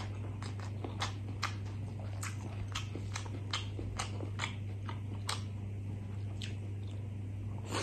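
Close-miked chewing of a mouthful of rice and coconut-chilli curry: soft, irregular wet mouth clicks, two or three a second, over a steady low hum.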